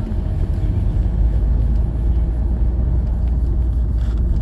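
Steady low rumble of a moving vehicle: road and engine noise.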